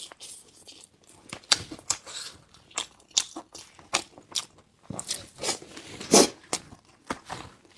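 Close-miked eating: a run of irregular crunches, bites and wet chewing clicks, the loudest a little past six seconds in.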